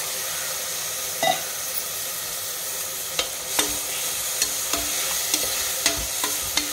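Tomatoes, onions and spices frying in oil in an aluminium pressure cooker, sizzling steadily while a steel ladle stirs them. A clink about a second in, then a run of clinks and scrapes of the ladle against the pot from about three seconds on.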